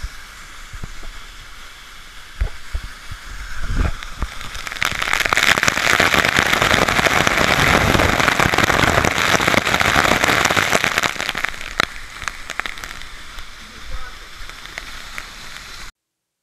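Rushing, splashing water of a waterfall: a steady hiss that swells loud about five seconds in, holds for several seconds, then dies down, with a few knocks along the way.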